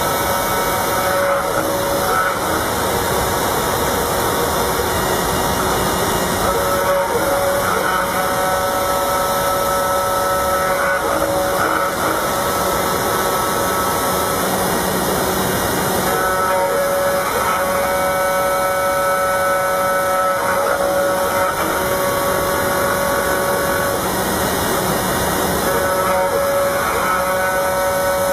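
Small CNC router's spindle running as its bit cuts aluminum: a loud, steady hiss with whining tones that drop out and come back every few seconds as the cut changes.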